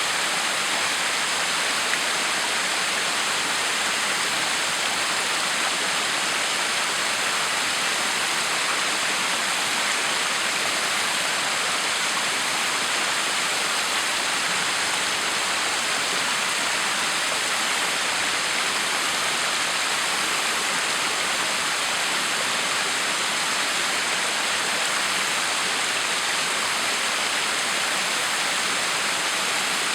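Backyard waterfall: water pouring and splashing in a steady, unbroken rush.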